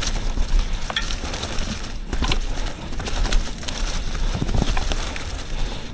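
Yeti SB 150 29er mountain bike riding down a dirt trail: tyres crunching and crackling over the ground, wind rumbling on the microphone, and frequent sharp clicks and rattles from the bike over bumps.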